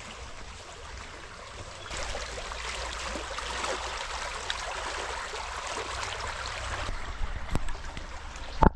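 River water flowing, a steady rushing hiss that grows louder about two seconds in, with a sharp knock just before the end.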